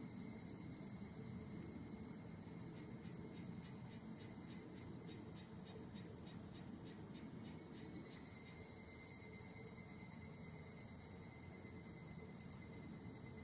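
Insect chorus with higurashi (evening cicadas): a steady high-pitched trill, short chirps of two or three pulses about every three seconds, and a fast pulsing call through the middle.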